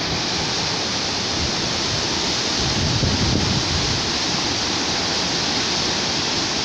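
Whitewater river rushing in a steady hiss, with wind buffeting the microphone in a low rumble about three seconds in.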